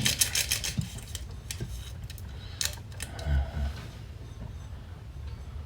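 Paper sugar packet being shaken over a coffee cup: a quick run of small rattling ticks that stops about a second in, followed by a few scattered light clicks and taps, with a soft low sound about three seconds in.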